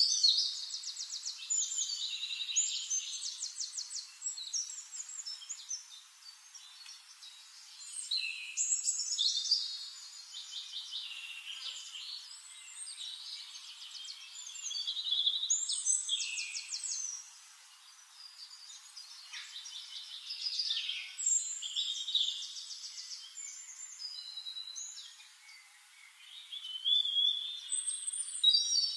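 Songbird singing: fast trills and varied high chirping phrases, in bursts a few seconds apart.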